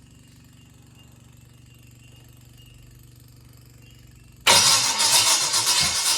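A 350 Chevy small-block V8 is suddenly turned over about four and a half seconds in, loud and fast-pulsing, as a start is attempted. Before that there is only a faint steady hum.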